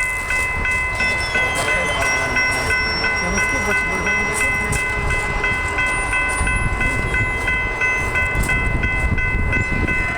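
Amtrak passenger train led by an F59PH diesel locomotive passing at speed: steady engine and wheel-on-rail noise. A ringing tone, pulsing rapidly, carries on over it.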